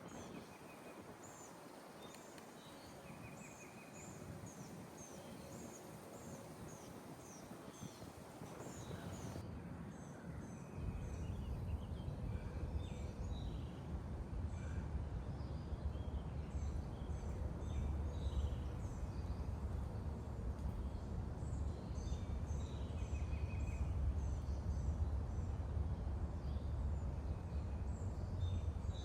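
Small birds chirping and calling over and over, over a steady hum of distant highway traffic. From about eleven seconds in, wind buffets the microphone with a loud low rumble that stays to the end.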